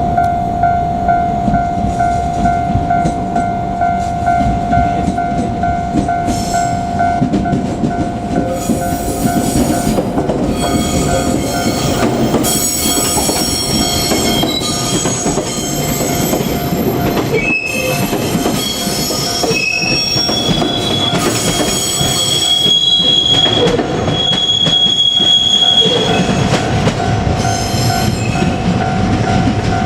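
Level crossing warning bell ringing in a steady repeating beat while a JR Kyushu 817 series electric train passes over the rails. From about eight seconds in, the wheels squeal in high tones that come and go.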